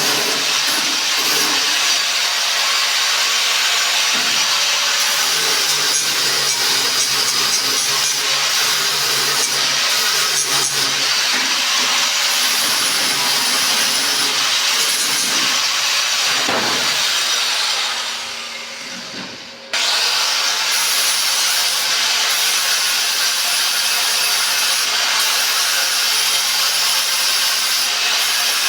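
Angle grinder with a flap disc sanding down metal, a steady loud grinding hiss. About two-thirds of the way through it eases off and winds down for a second or two, then cuts back in at full speed.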